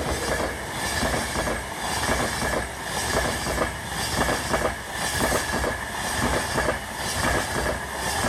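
LNER passenger train passing at speed, its wheels clattering rapidly over the rail joints, with a steady high whine running through the noise.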